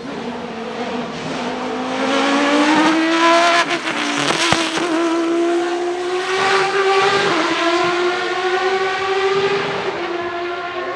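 The Judd GV4 4.0-litre V10 of a 2002 Dallara SP1 LMP900 prototype racing car, running hard with its pitch climbing steadily as it accelerates. It briefly breaks about four and a half seconds in, then climbs again and eases near the end.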